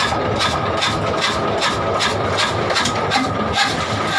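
Small boat engine running with a steady, regular knock about three times a second.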